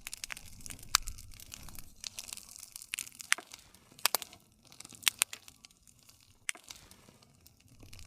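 Wood campfire crackling, with sharp pops scattered irregularly over a soft hiss, and a low rumble of the flames that dies down about two seconds in.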